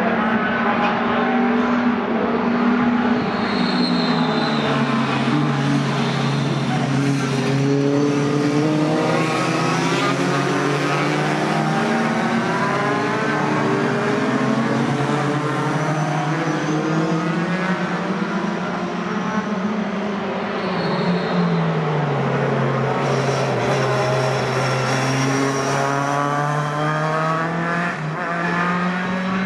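Several pickup race trucks lapping the circuit, their engine notes overlapping and sliding down and up in pitch as they pass, with no break in the sound.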